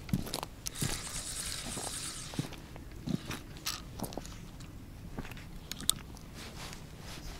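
Someone chewing and crunching food close to the microphone: irregular soft crunches and small clicks, with a short rustle about a second in.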